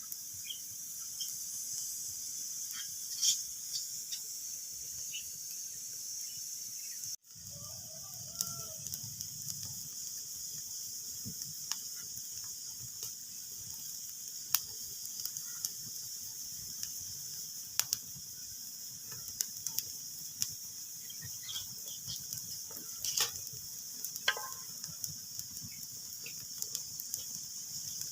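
Wood fire crackling in a fireplace: a steady hiss with irregular sharp pops and snaps scattered throughout. The sound cuts out for an instant about seven seconds in, then carries on.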